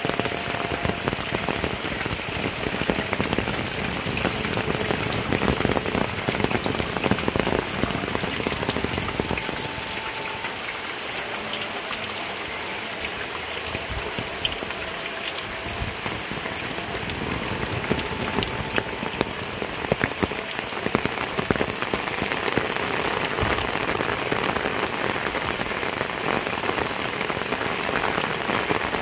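Heavy rain pouring steadily, a dense patter of drops, easing slightly for a few seconds in the middle.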